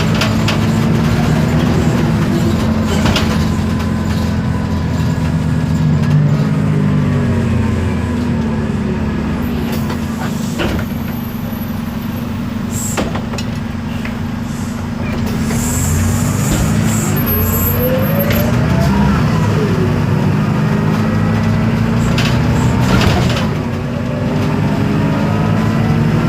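2012 Isobus City 1200 city bus under way, heard from inside: the MAN D0836 diesel engine runs with a ZF Ecomat 6HP504C automatic transmission and differential whine that slides up and down with speed. The running eases off for a few seconds in the middle, and there are occasional sharp knocks and rattles.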